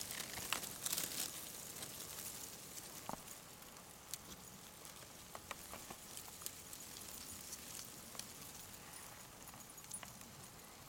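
Field ants making a faint, crackly rustle with scattered small ticks, a little busier in the first second or so.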